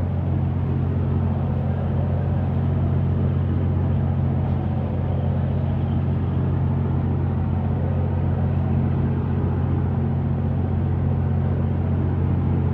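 A steady, unchanging low engine drone, like a motor vehicle running.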